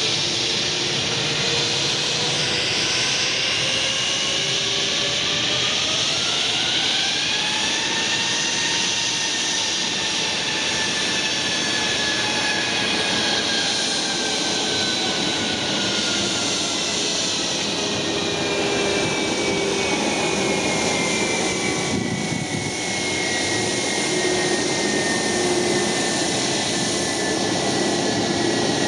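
Airbus A320-232 jet engines (IAE V2500) running at high power for take-off, with a loud steady roar. A whine rises steeply over several seconds as the engines spool up, then slowly falls in pitch.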